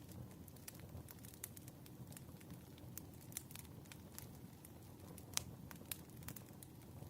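Firewood burning, faint: irregular sharp crackles and pops over a low, steady rumble of the flames, the loudest pop a little past halfway.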